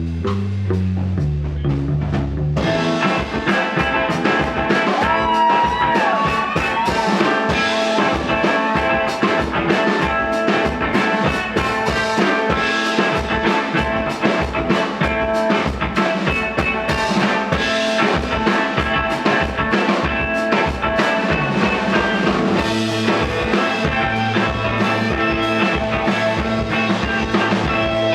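Live rock band playing an instrumental passage: a low bass line at first, then drums and guitars come in about two and a half seconds in, and the full band plays on with a steady beat.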